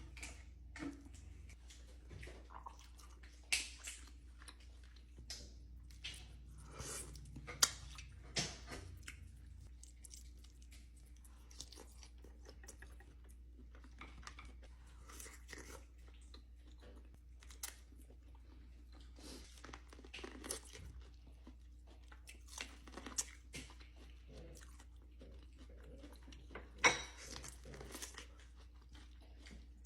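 Close-miked eating: a person biting into and chewing crunchy food, with irregular crisp crunches and wet chewing sounds, now and then a louder bite. A low steady hum lies underneath.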